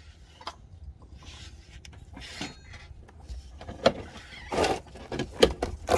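Workshop handling noises: scattered clicks and knocks, with short rustles, as the oil filter cartridge and its housing parts are handled during an oil filter change. The sounds get louder and busier in the second half, with a few sharp knocks.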